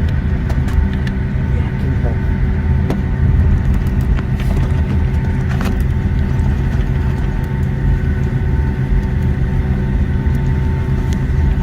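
Boeing 757-200 cabin while taxiing: a steady low rumble of the jet engines at taxi power and the rolling gear, with a constant engine whine over it and scattered light clicks and rattles.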